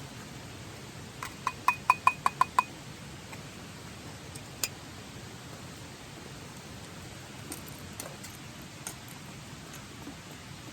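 A quick run of about seven sharp metallic clicks, each with a brief ringing tone, followed by a single click and a few faint ticks, over a steady hiss.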